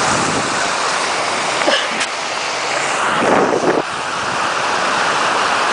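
Steady rushing of floodwater, swelling louder for about half a second around three seconds in, with a brief click about two seconds in.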